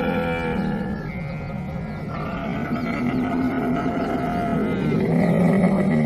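Camel vocalizing: long, low, rough calls that dip in loudness about a second or two in and swell again near the end.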